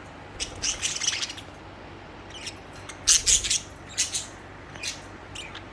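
Pet budgerigars chirping and chattering in several short, high-pitched bursts, the loudest about three seconds in.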